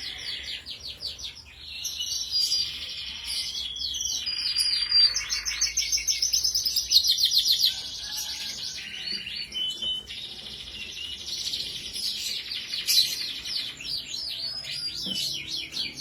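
Domestic canary singing a long, continuous song of fast trills and rolled notes, with a brief break about a second and a half in.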